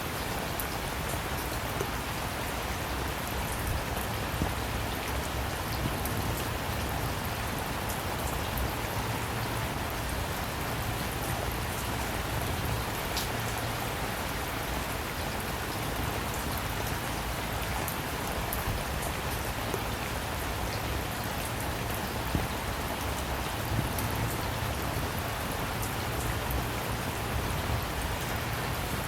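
Steady rainfall, drops pattering on a surface, with scattered individual drop ticks and no thunder.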